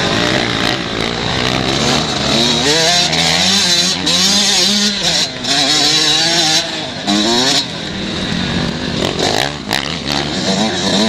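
Several 125 cc motocross bikes racing, their engines revving up and dropping back again and again as the riders work the throttle and change gear.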